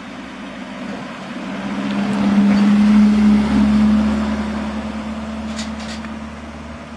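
A truck's engine running as it drives past, growing louder to a peak about three seconds in and then fading away. Two short high hisses come near the end.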